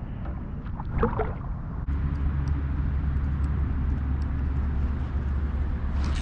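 A steady low motor hum that starts abruptly about two seconds in, over background noise, with a few brief sounds about a second in.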